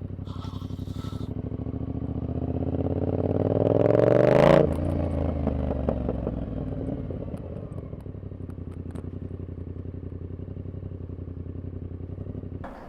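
Yamaha XSR700's 689 cc parallel-twin engine through a Kelpi short full exhaust with its standard baffle. The revs climb for about four and a half seconds, drop suddenly, then run lower and ease down until the engine sound stops near the end.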